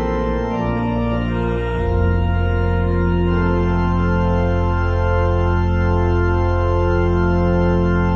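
Organ playing sustained chords, with a deep bass note coming in about two seconds in and held under a long chord.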